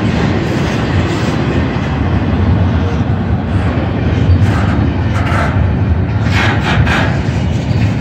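A freight train's cars rolling through a grade crossing with a steady, loud rumble. Short bursts of rattling and clanking come about four to seven seconds in.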